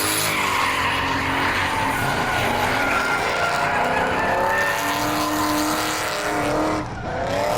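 Drift car engine revving hard as the car slides, its pitch rising and falling, over tyre screech. The engine note drops away briefly near the end and then climbs again.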